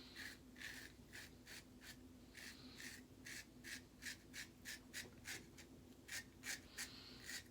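Autostrop safety razor scraping through lathered stubble in quick, short strokes, about three a second with a few longer ones, a faint crisp scratching.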